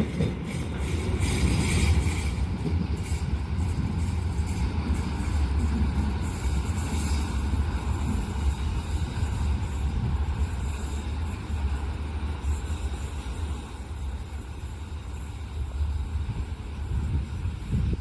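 Steady low rumble of passing vehicles at a level crossing, with a light hiss over it.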